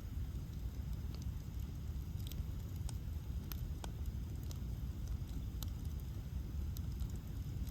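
Bonfire of ash logs burning with a steady low rumble, and scattered sharp crackles and pops of the wood, most of them in the middle of the stretch.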